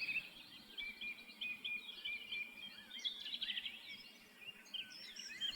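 Several small birds chirping and singing in a steady run of short, high chirps and trills.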